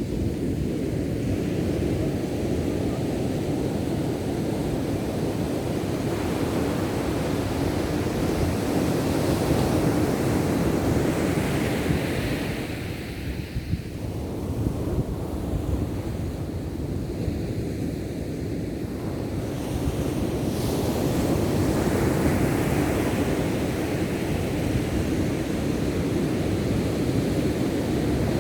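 Ocean surf breaking and washing in continuously, swelling louder and easing off in slow surges, with wind buffeting the microphone.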